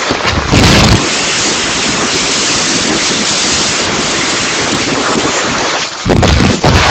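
Typhoon wind and heavy rain: a steady rushing hiss, with strong gusts buffeting the microphone about half a second in and again near the end.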